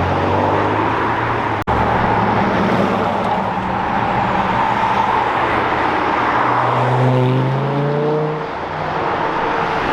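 Classic car engines accelerating away under load, with a sharp break just under two seconds in. About seven seconds in, one engine revs up, rising in pitch for about a second and a half.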